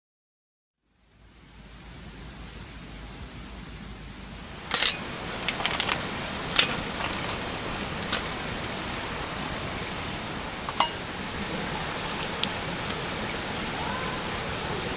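Wood campfire burning: a steady hiss fades in after a second of silence, and from about a third of the way in there are sharp, irregular crackles and pops.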